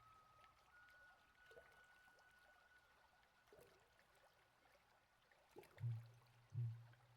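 Quiet soundscape of traditional Māori instruments (taonga pūoro) over faint trickling water. A thin, steady, flute-like note is held for the first three seconds, then two short low pulses come near the end.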